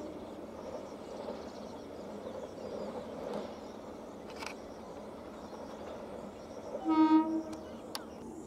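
Steady rumble of an Indian Railways train running along the line, with a few sharp clicks. About seven seconds in, a locomotive horn gives one short, loud blast.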